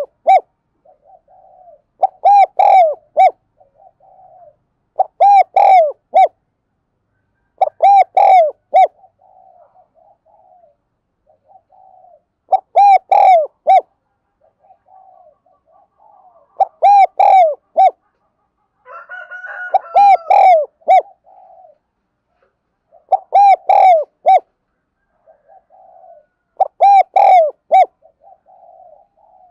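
Spotted dove cooing: a loud cooing phrase repeated about every three to four seconds, with softer coos between phrases. A brief higher call from another bird comes just before one phrase, a little past the middle.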